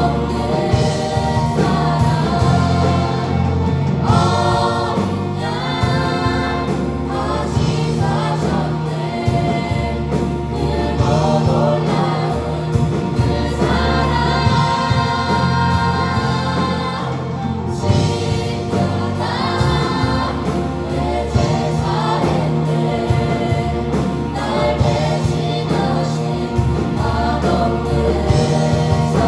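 A choir sings a gospel praise song over band accompaniment with a steady beat.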